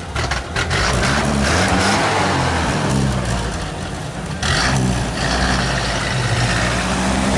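GAZ-21 Volga's four-cylinder petrol engine running as the car pulls slowly away, its revs rising and falling a few times. A rushing hiss joins about four and a half seconds in.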